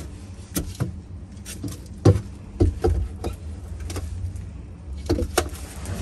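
Scattered clicks, knocks and rustles from trash being handled and rummaged through by hand, over a steady low rumble.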